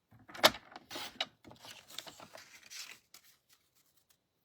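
Paper trimmer cutting a piece of patterned designer paper: a sharp click about half a second in, then the scratchy rasp of the blade drawn through the paper for about two seconds, and a few light ticks near the end.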